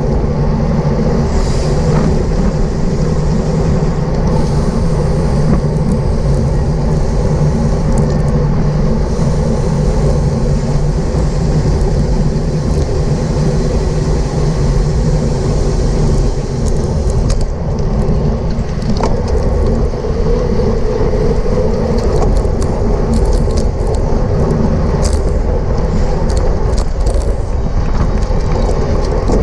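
Steady wind and road noise on a bike-mounted camera's microphone while riding a road bike at race speed, with a few faint ticks.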